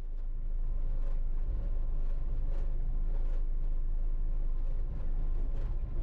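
Diesel engine of a JCB tracked skid steer running steadily with a low rumble, with a few faint rattles and clanks from the machine.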